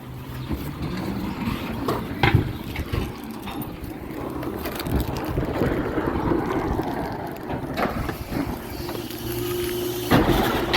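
Garbage truck running with a steady low rumble, with a couple of short knocks and a louder burst of noise near the end.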